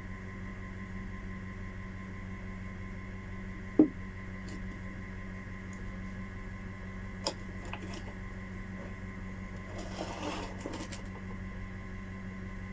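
Parts of a rotary hammer being handled during its repair: one sharp knock about four seconds in, a few small clicks midway, and a brief scraping rustle near the end, over a steady electrical hum.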